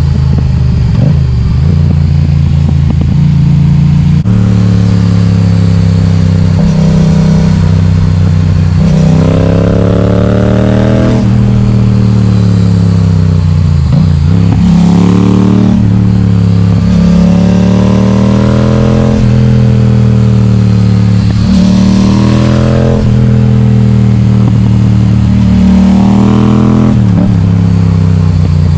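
Yamaha XSR700's parallel-twin engine through an Akrapovic exhaust with its baffle removed, running loud on the road. Its pitch climbs and drops back about five times as the rider accelerates and eases off.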